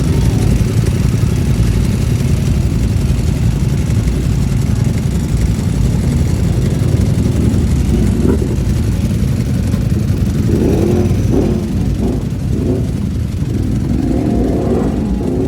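Ducati V4 motorcycle engine running through a Termignoni full-system exhaust, a loud steady deep exhaust note, with the pitch swinging up and down several times in the last few seconds as the throttle is blipped.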